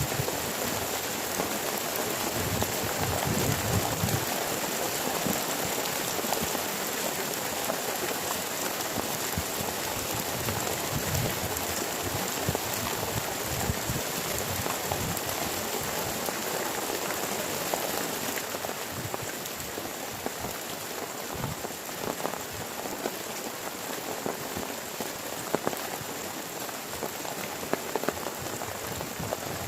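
Heavy rain falling steadily, with many scattered drop impacts; it eases slightly about two-thirds of the way through.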